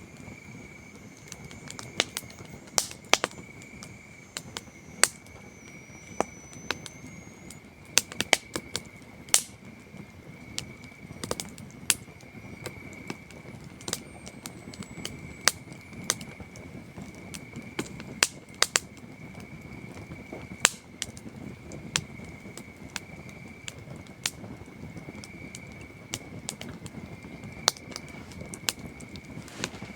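Wood campfire crackling, with irregular sharp pops and snaps of burning logs, over the steady high chirring of crickets.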